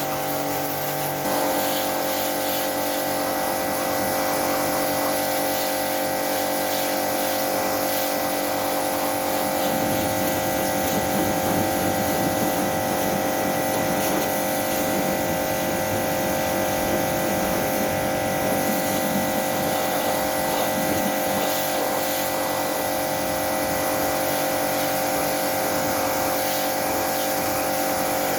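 Portable electric pressure washer running steadily, its motor and pump giving a constant hum with a few fixed tones; about ten seconds in, a rougher low rush joins it.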